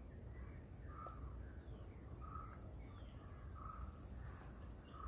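A bird's short call repeated four times at an even pace, about once every second and a quarter, faint against the outdoor background, with other birds chirping faintly.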